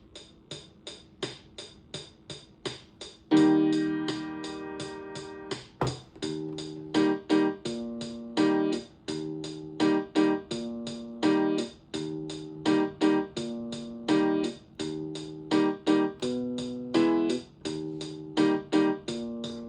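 Suzuki Omnichord OM-300 playing: its built-in rhythm ticks along on its own at about three beats a second, then about three seconds in electronic chords come in and change in a repeating rhythmic pattern over the beat. The instrument sounds again after a repair of torn traces on its power board.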